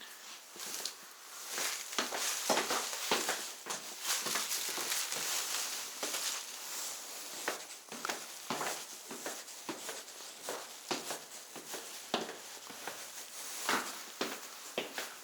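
Rustling and crinkling with many irregular clicks and taps, close to the microphone.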